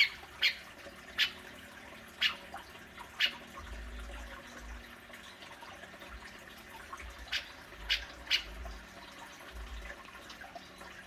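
Grey-cheeked bulbul (cucak jenggot) giving short, sharp single calls: a quick run of five in the first three and a half seconds, then three more close together about seven to eight seconds in. A low rumble comes and goes underneath.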